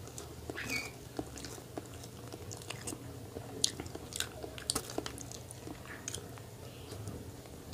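A person chewing and biting into a chocolate-glazed, marshmallow-filled donut. Short, irregular clicking mouth sounds are scattered throughout.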